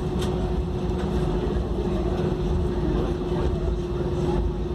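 Steady cabin noise inside an Airbus A320 on the ground: a continuous low rumble with a constant hum tone from the aircraft's engines and air systems.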